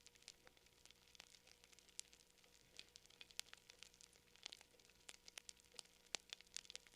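Wood fire crackling quietly, with frequent irregular sharp pops and snaps over a soft hiss.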